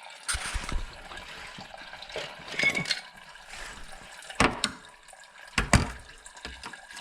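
Coolant running from the opened radiator drain tap into a container, a steady trickle of liquid. Over it come several sharp clicks and knocks; the loudest are about four and a half seconds and almost six seconds in.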